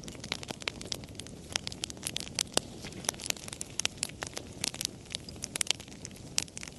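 Wood fire crackling, with many sharp, irregular pops and snaps over a low steady rumble of burning.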